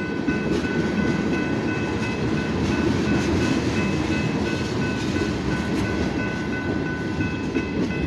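Freight train cars rolling past on the rails: a steady rumble with a thin, high ringing tone held over it.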